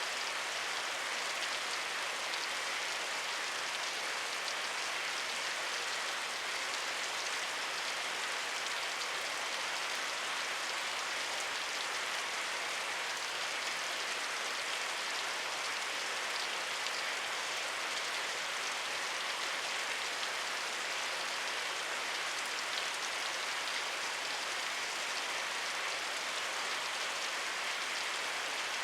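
Steady rain falling, an even hiss with fine scattered drop patter that holds at a constant level.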